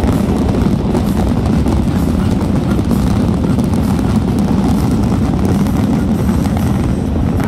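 Dense fireworks barrage, the bursts so close together that they merge into one steady, loud low noise with crackling.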